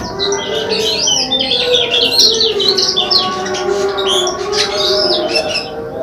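Small caged songbirds singing in fast, continuous high twittering and chirping phrases: a cemperling and a kecial (Lombok white-eye) set against each other to sing.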